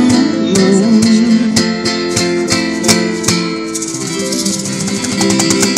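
Live band music: acoustic guitar strummed in chords over a steady beat of sharp percussive strokes.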